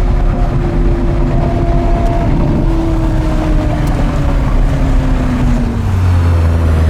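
Porsche Carrera GT's V10 running through an FVD exhaust, its engine note falling slowly and steadily in pitch as the car moves off. A steady low hum comes in near the end.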